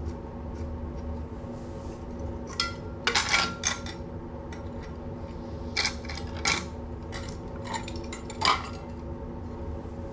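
Metal tools and parts clinking and clattering as they are handled, in a few separate groups of sharp knocks, one briefly ringing, over a steady low hum.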